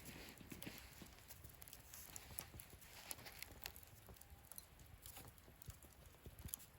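Wood fire burning in a portable fire stand: faint, irregular crackles and small snaps of burning wood.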